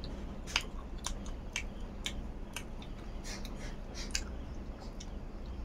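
A person chewing a mouthful of food close to the microphone, with short wet smacks and clicks of the mouth about twice a second, over a steady low hum.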